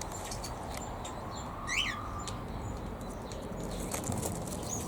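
Aviary birds calling: one short chirp a little under two seconds in and a few faint high peeps, over a steady background hiss.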